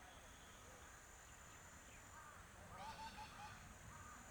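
Faint calls of a water bird: a quick run of short, clipped notes, about five a second, a little past halfway, with a few single notes just before and after.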